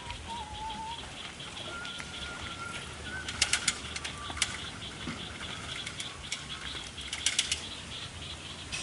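Birds outdoors: faint short whistled calls over a steady high hiss, with three brief bursts of rapid clicking, tagged as wings flapping.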